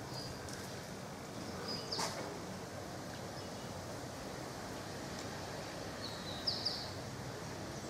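Outdoor ambience with a steady low background hum and a few short, high bird chirps: one just before a sharp click about two seconds in, and a quick pair near the end.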